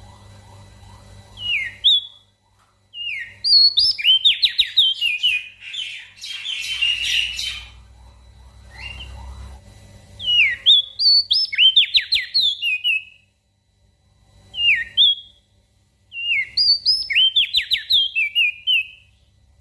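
Small songbird singing, of the kind heard on an opior jambul (crested white-eye) and prenjak daun tutor recording: repeated phrases of rapid, high whistled notes that sweep sharply in pitch, five phrases with short pauses between them. A faint low hum runs underneath.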